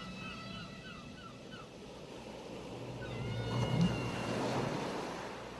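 Surf washing onto the shore, one wave swelling to a peak about two-thirds of the way through and then fading, with seagulls giving short repeated calls early on and again as the wave comes in.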